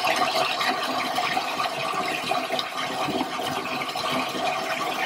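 Water pouring from a bathtub spout into the tub as a bath fills: a steady rushing splash.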